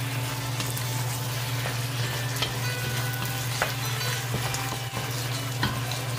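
Chicken pieces sizzling in a hot steel wok while a wooden spatula stirs them, with a steady frying hiss and a few sharp clicks scattered through.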